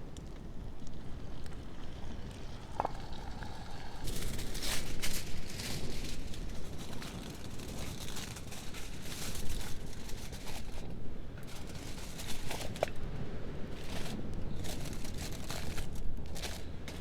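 Irregular crackles, rustles and scrapes of hands-on campfire cooking, with two short metallic clinks, over a steady low rumble.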